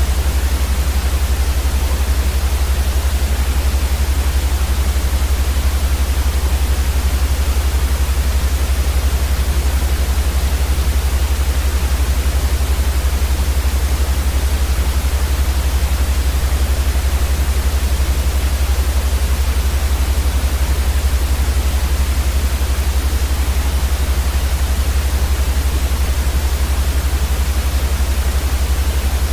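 Steady, unchanging white noise of a baby-sleep track: an even hiss with a strong low rumble underneath.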